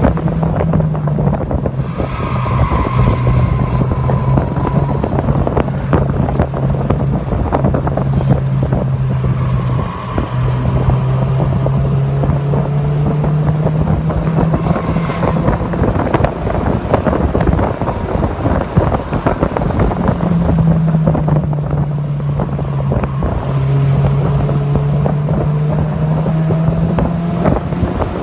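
Mazda MX-5 Miata (NC) four-cylinder engine running hard at speed, with wind buffeting the microphone. The engine note climbs slowly and drops several times as it shifts and lifts.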